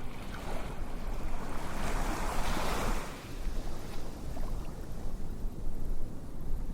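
Rushing noise of ocean waves, with a deep steady rumble and one wave swelling and fading about two to three seconds in.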